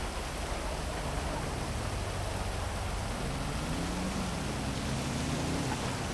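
Heavy, steady rain falling over a city. A low vehicle engine drone rises and then falls in pitch about halfway through.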